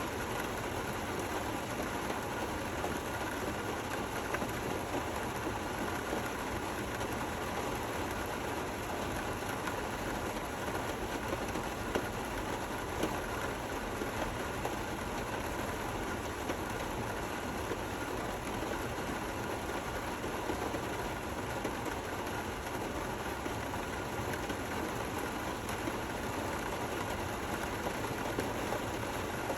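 Steady rain falling: an even hiss with a few brief louder drops.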